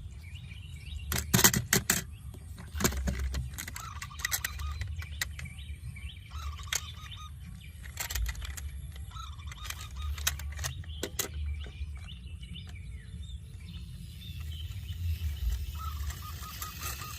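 Small birds chirping in short repeated trills, broken by sharp clicks and clacks, the loudest a quick cluster about a second and a half in, over a steady low rumble.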